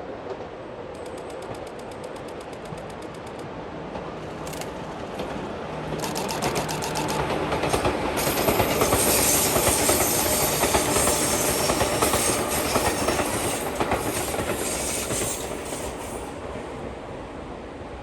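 An electric train passing along the track, its noise building over several seconds, loudest in the middle, then fading as it goes by, with wheels clattering in a rapid even rhythm over the rail joints.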